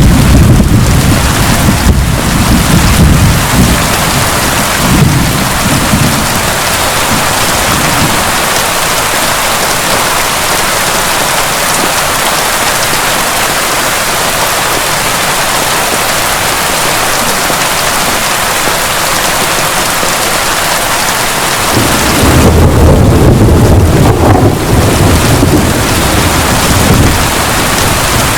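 Heavy, steady rain with rolling thunder: a low rumble dies away over the first several seconds, and a second roll of thunder comes in about three-quarters of the way through and dies away again.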